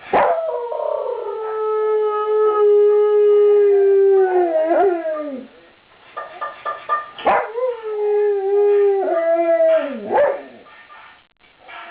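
A dog howling: two long howls, each held on a steady pitch for a few seconds and sliding down at the end, the second starting about seven seconds in.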